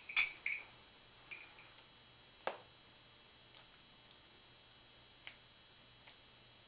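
A few faint clicks in a quiet small room, the sharpest about two and a half seconds in.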